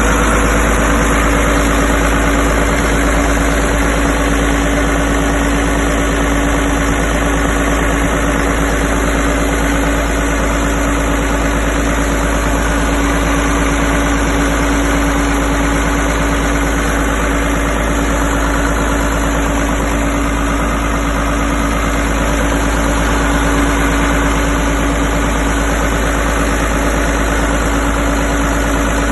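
Hamm 4011D's diesel engine idling steadily on a test run, with an even, rapid firing pulse and no change in speed.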